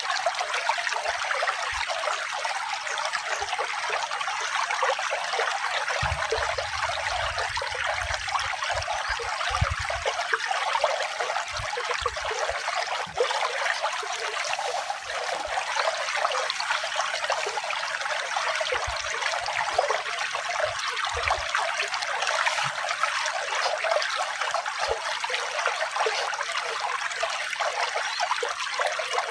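Running water trickling and splashing steadily, with brief low rumbles about six to ten seconds in.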